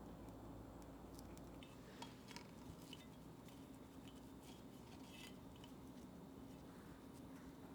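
Near silence: a low steady room hum with a few faint, light clicks and taps of small kitchen items being handled.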